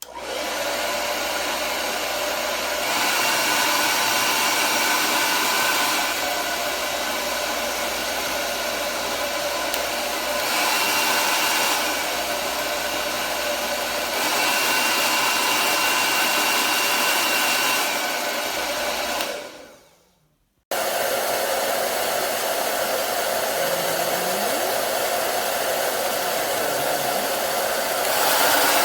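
1875W tourmaline hair dryer blowing, a steady rush of air with a faint motor whine, getting louder and softer in steps several times. About 19 seconds in it is switched off and winds down, then it starts again abruptly a second or so later.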